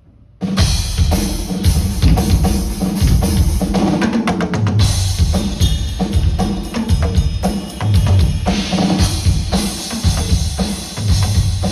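Full drum kit played as a groove for a sound check: kick drum, snare and cymbals together, starting about half a second in, with a fast run of hits about four seconds in.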